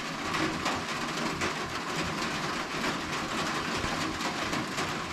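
Steady rain pattering, an even hiss made up of many small drop ticks.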